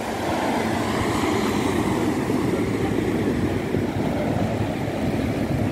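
Train passing on the railway line, a steady noise that grows louder about half a second in and then holds.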